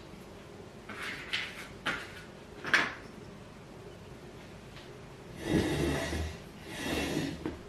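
Handling noises from assembling a wooden dining set: a few short sharp knocks, then two longer scraping sounds of about a second each.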